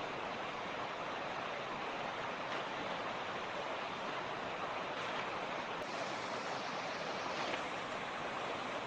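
Creek water rushing and babbling steadily over stones, an even splashing hiss.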